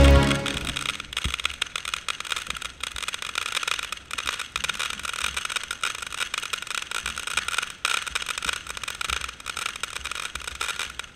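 Dense, irregular crackling of fireworks, many small sharp pops close together, that stops suddenly at the end.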